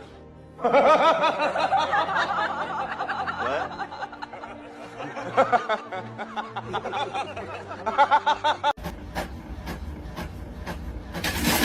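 A person laughing in bursts over background music. After an abrupt cut late on, music with a steady beat.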